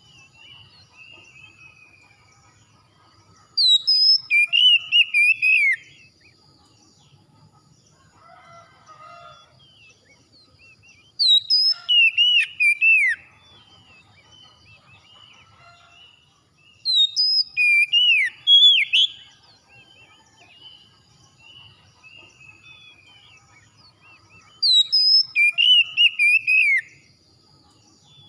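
A songbird singing four loud phrases of quick, sweeping whistled notes, each about two seconds long and several seconds apart, with fainter chirps between them.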